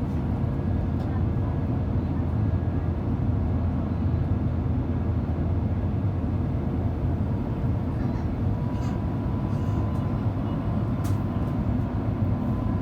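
Steady engine and airflow noise heard inside the cabin of an Airbus A350 with Rolls-Royce Trent XWB engines. A faint steady tone fades out about halfway through and a higher faint tone comes in about eight seconds in.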